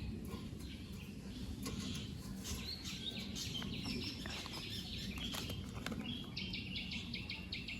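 Small birds chirping in scattered short high notes over a steady low background noise; about six seconds in, a fast run of repeated chirps starts up.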